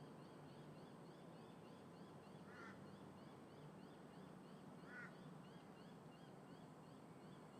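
Two faint crow caws, about two seconds apart, over a low hum of distant traffic and wind, with a steady run of faint high chirps about three a second.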